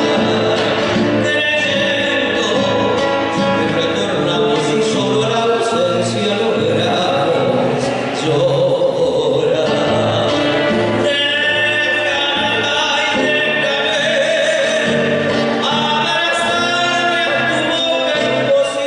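Argentine folk song: voices singing over instrumental backing.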